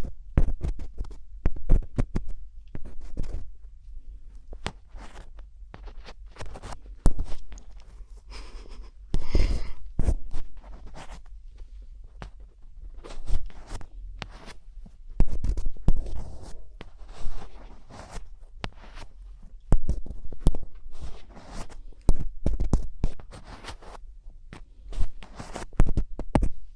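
ASMR scratching close to the microphone: irregular crisp scratches, clicks and short scraping strokes, with a longer scrape about nine seconds in.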